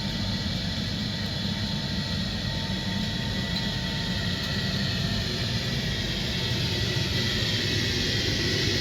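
A train running past or approaching: a steady, broad rumble with a faint steady whine, getting slowly louder.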